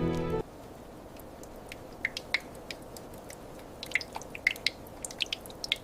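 Soft background music cuts off about half a second in, leaving a faint steady hiss. From about two seconds in come scattered small drip-like ticks that grow more frequent toward the end.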